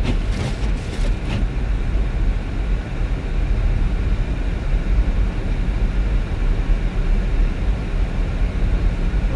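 Steady low rumble of a car driving, road and engine noise, with a few light clicks in the first second or so.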